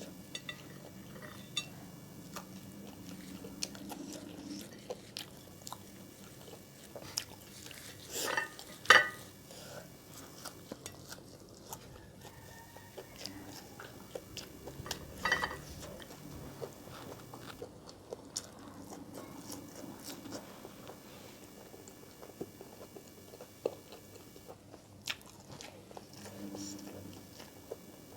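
A person chewing and biting food close to the microphone, with scattered small crunches and clicks; the loudest crunches come about eight to nine seconds in and again about fifteen seconds in.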